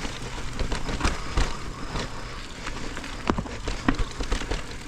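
Mountain bike riding over a rough, muddy trail: steady tyre noise on dirt with frequent short knocks and rattles from the bike.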